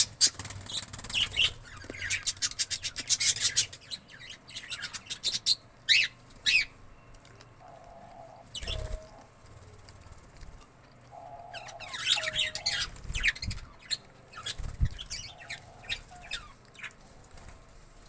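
Indian ringneck parakeet calling in bursts of rapid high chattering chirps and short sweeping screeches, with pauses between. There are a few dull thumps in the quieter middle stretch.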